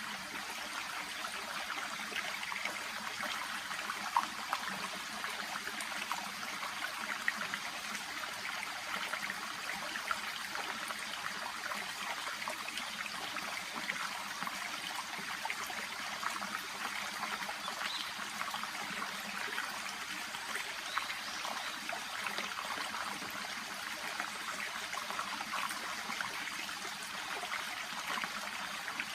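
Small shallow brook babbling steadily: a continuous trickle of running water, flecked with small splashes and faint plinks.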